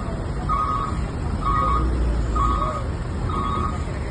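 A vehicle's reversing alarm beeping about once a second, while the vehicle's engine runs with a low rumble underneath as it backs up.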